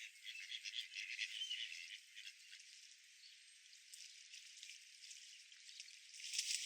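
Thin, crackly patter of short clicks and rattles from a park pond with ducks and swans, with a faint bird chirp about a second and a half in and a louder burst of crackling near the end.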